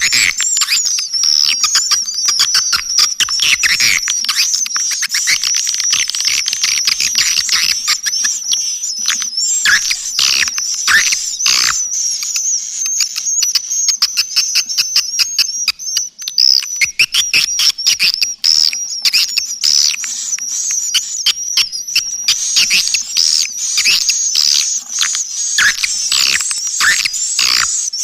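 Swiftlet lure call track ('suara panggil'): a dense, unbroken mass of high-pitched swiftlet chirping and twittering over rapid clicks. It is the calling sound played in swiftlet houses to draw edible-nest swiftlets in.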